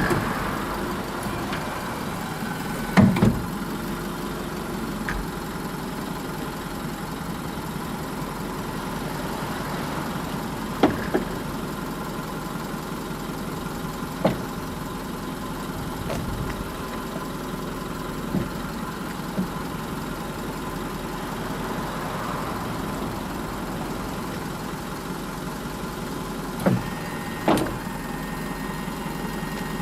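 Under-floor stowing power tail gate on a Mitsubishi Fuso Canter truck being operated: a steady machine hum while the gate moves, broken by a series of metallic clunks, some in pairs, as the platform shifts and stops.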